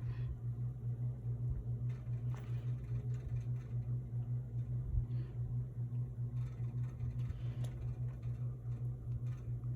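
A steady low hum, with a few faint clicks and rustles over it.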